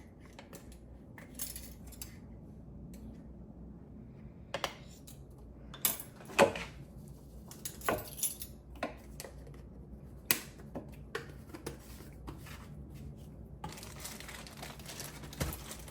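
Metal measuring spoons clinking and tapping against a bowl while spices are measured out: scattered light clinks, the loudest about six seconds in. A faint steady hiss comes in near the end.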